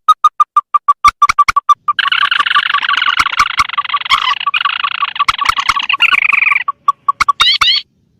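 Played-back lure recording of swamphen and crake calls: quick single notes repeated about four a second, then a dense cackling chatter from about two seconds in until nearly seven seconds, then single notes again and a few short rising calls near the end.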